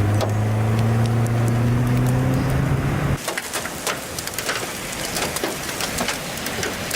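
A vehicle engine runs with its note slowly rising, then cuts off suddenly about three seconds in. Wind and rain follow, with many sharp ticks and knocks of debris or hail striking.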